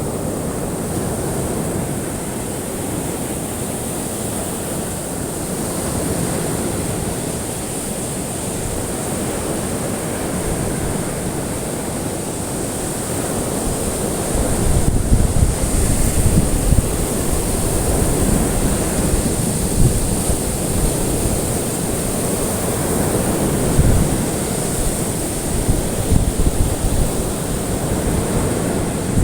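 Ocean surf washing in continuously, with a steady high hiss over it. About halfway through, a deeper rumble, like wind on the microphone, grows in.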